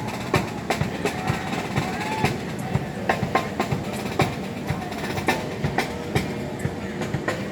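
Percussion being played: sharp knocks and strikes at an uneven pace, several a second, over a steady background of park ambience.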